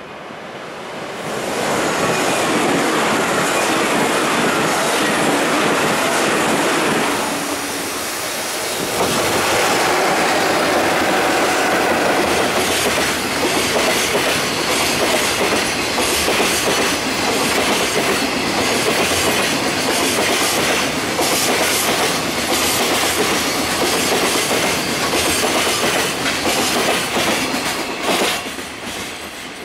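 A freight train headed by two JR Freight EF66 electric locomotives passes, followed by a long rake of container wagons whose wheels clatter over the rail joints in a rapid clickety-clack. The noise swells about a second in, dips briefly once the locomotives have gone by, and fades near the end as the last wagon passes.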